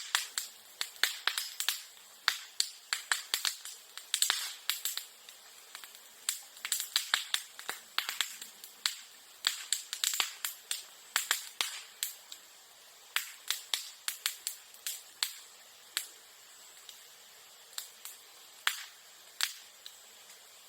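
Sasa bamboo grass burning in a bonfire, its stems bursting with sharp, irregular pops and cracks. The pops come several a second at first and thin out to a few scattered ones over the last few seconds.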